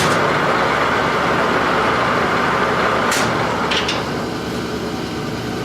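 Clausing Colchester 15x50 lathe running, its headstock gears and spindle turning steadily at a low spindle speed, getting louder right at the start. Two short clicks come about three and four seconds in.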